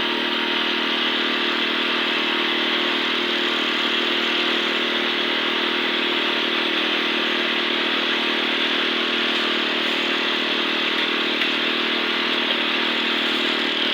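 Concrete mixer's small engine running steadily at a constant speed.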